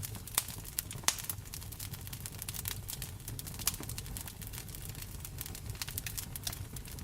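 Wood fire in a fireplace crackling, with dense irregular snaps and a few louder pops over a low steady rumble.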